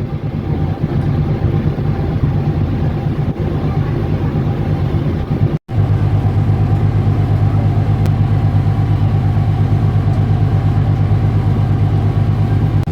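Passenger ship's diesel engines droning steadily on board: a low hum with a fast, even pulse. The sound cuts out for an instant about five and a half seconds in.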